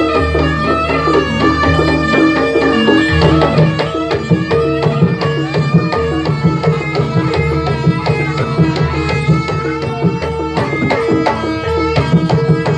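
Javanese jaranan (kuda lumping) music: hand drums beat a busy, driving rhythm over sustained pitched instrument tones.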